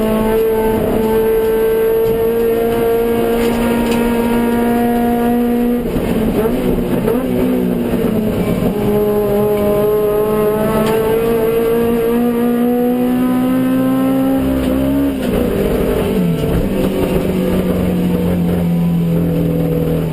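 Suzuki Swift GTi's G13B 1.3-litre twin-cam four-cylinder racing at high revs under load. The engine note holds fairly steady, dips about six seconds in, climbs slowly again, then falls gradually over the last few seconds.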